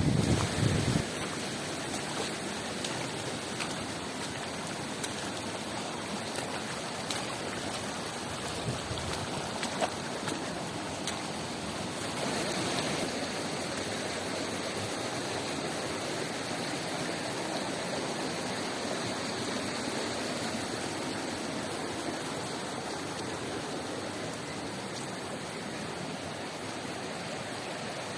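Steady rush of river water flowing over rocks near a waterfall. A low buffeting of wind on the microphone fades out about a second in.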